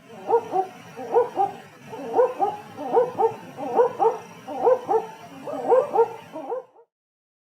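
Owl calling: short pitched notes in pairs or small groups, repeated about once a second, stopping shortly before the end.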